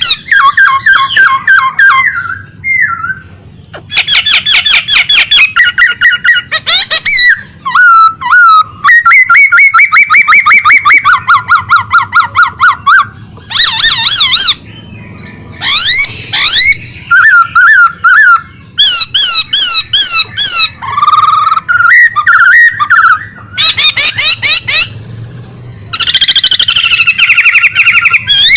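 Pet songbird singing loudly and almost without pause: fast runs of repeated notes, trills and whistled up-and-down glides in varied phrases, with short breaks between them. This is the vigorous, sustained singing bird keepers call 'gacor'.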